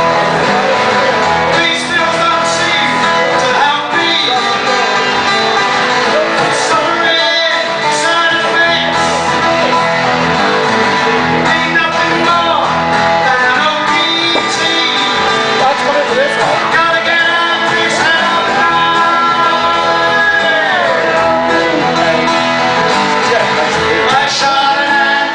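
A song performed live: strummed guitar with a singing voice.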